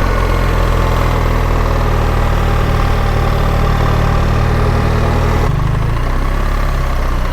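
BMW R 1300 GS's boxer twin engine running steadily under way, its note changing about five and a half seconds in.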